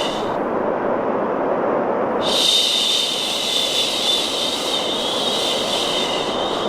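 A long, steady 'shhh' shushing sound over a continuous bed of white noise, used to soothe a baby to sleep. The shush breaks off about half a second in and starts again about two seconds in, leaving only the softer, lower noise in the gap.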